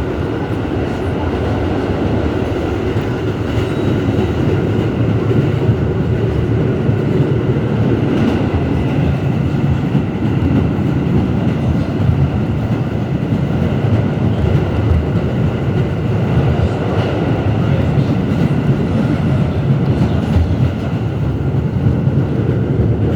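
R211S subway car running along the track, a steady rumble of wheels on rails heard from inside the car.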